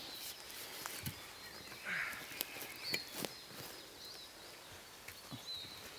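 Forest ambience: a few short, high bird chirps over a low background hiss, with scattered sharp clicks and knocks at irregular intervals, loudest about three seconds in.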